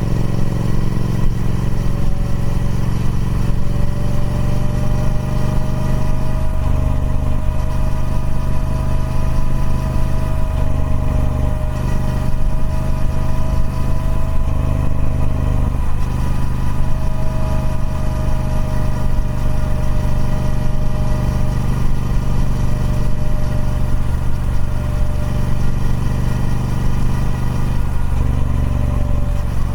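Triumph Speed Twin 1200's 1200cc parallel-twin engine running steadily through its stock exhaust, the note shifting slightly a few times.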